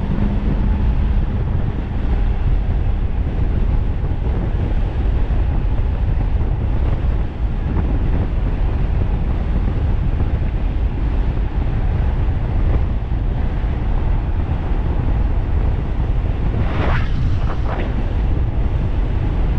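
Wind buffeting the microphone on a fast-moving electric bike, a loud steady rumble, with a couple of brief sharper sounds near the end.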